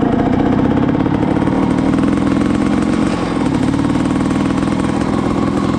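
Honda CR500R's two-stroke single-cylinder engine running steadily at an even, low engine speed while the bike is ridden.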